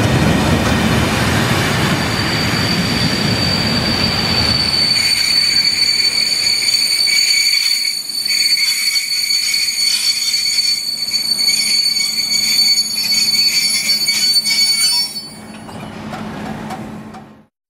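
Test train's coaches rolling slowly through a station and slowing down. Wheel rumble gives way, about five seconds in, to a steady high-pitched brake and wheel squeal that stops abruptly near the end as the train comes almost to a stand.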